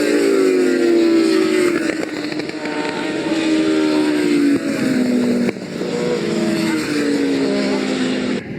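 Large-capacity racing motorcycles pass at speed one after another, each engine note falling in pitch as it goes by. The sound drops abruptly twice near the middle.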